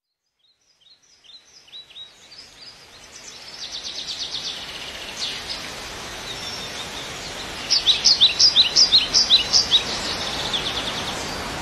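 Small birds chirping: short high chirps fade in over a steady outdoor hiss. About eight seconds in comes a quicker, louder run of chirps, roughly five a second, lasting about two seconds.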